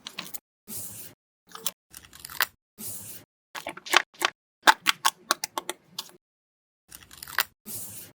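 Paper crafts being handled for ASMR: short bursts of paper rustling and crinkling with sharp taps and clicks, separated by silent gaps, and a quick run of clicks in the middle.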